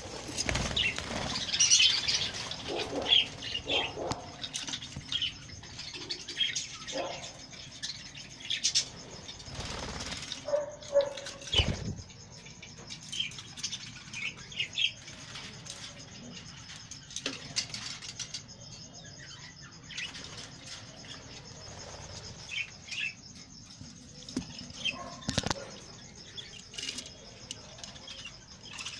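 Budgerigars chirping in short scattered calls, with wing flutters and sharp clicks and knocks throughout.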